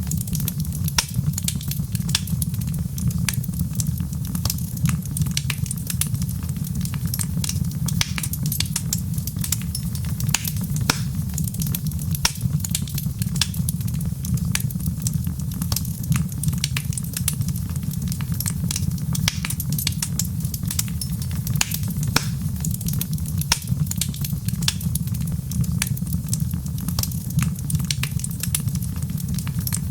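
Wood fire crackling in a fireplace: many small sharp pops and snaps come irregularly, several a second, over a steady low rumble of the burning fire.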